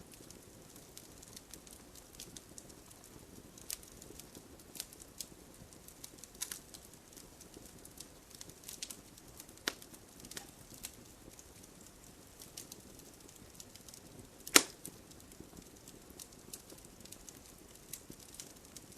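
Fire crackling in a fireplace: irregular small pops and snaps over a soft hiss, with one much louder pop about three-quarters of the way through.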